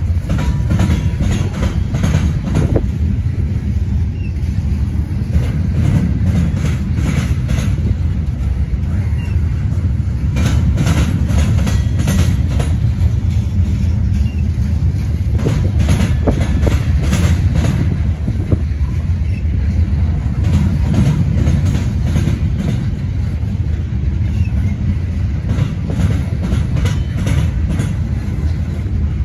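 Freight train of open-top gondola cars rolling past at close range: a steady low rumble of steel wheels on rail, broken by irregular clusters of sharp clicks as the wheel sets pass.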